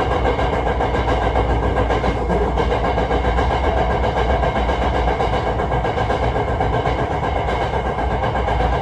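Hankyu 1000 series electric train running, with a continuous rapid rattling (katakata) over the running noise, an abnormal noise that the uploader suspects is a fault.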